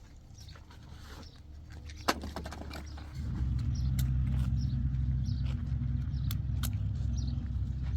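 An engine runs low and quiet, then about three seconds in it speeds up and runs steadily louder. A sharp click comes just before the change.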